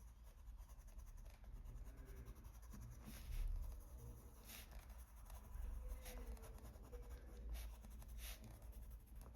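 Colored pencil rubbing on paper: faint scratchy strokes as a pink pencil blends shading into a colouring-book page.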